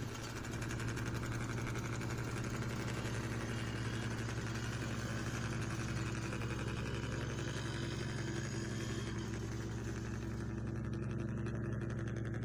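Steady engine idling sound with a constant low hum.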